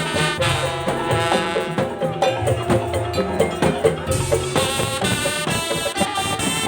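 Madurese daul (tongtong) ensemble playing a melody over a busy pattern of drums and struck percussion.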